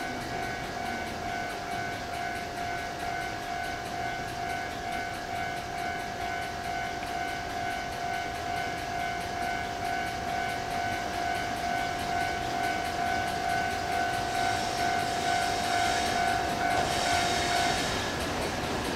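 EF64 electric locomotive hauling a freight train of Hoki 800 hopper cars drawing into the station, growing louder toward the end with a high hiss. Behind it runs a steady high tone that stops about a second before the end.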